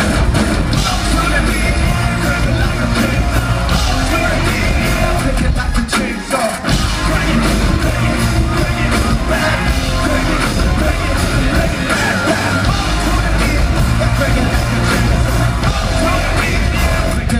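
Live rock band playing loud, heavy music with vocals. The low end drops out briefly about six seconds in.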